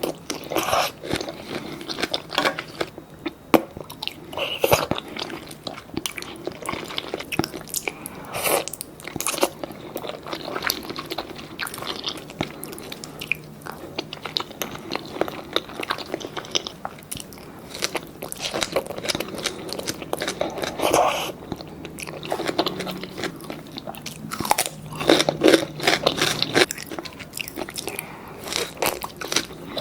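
Close-miked eating sounds: a person biting and chewing crunchy food, with irregular crunches, smacks and clicks of the mouth.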